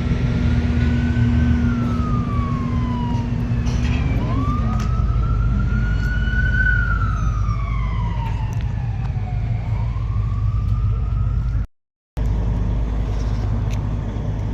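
An emergency vehicle siren wailing, its pitch slowly rising and falling in long sweeps about every five seconds, over a steady low rumble of traffic. The siren stops abruptly near the end at a brief dropout.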